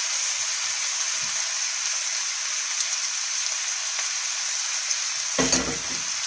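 Cubes of pre-fried eggplant and onion sizzling in a non-stick frying pan over a gas burner: a steady frying hiss. A brief low sound comes near the end.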